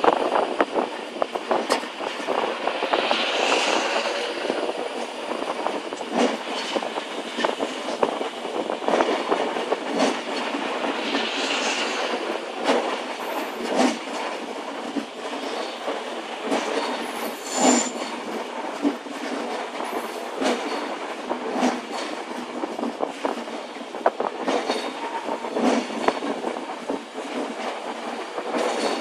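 Class 390 Pendolino electric train rolling slowly through the platform. Its wheels click irregularly over rail joints and pointwork, with a few brief high-pitched squeals.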